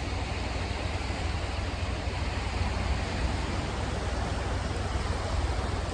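Steady wash of ocean surf and wind, an even hiss with a deep low rumble underneath.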